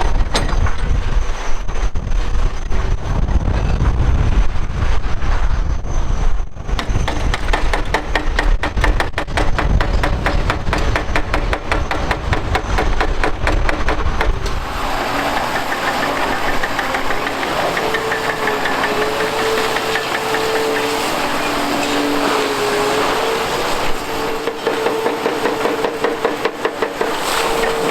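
Large Liebherr crawler excavators working: heavy diesel engine running under load with rapid pulsing and hydraulic noise. About halfway through the sound changes abruptly to a lighter machine sound with a steady whine that wavers slightly in pitch.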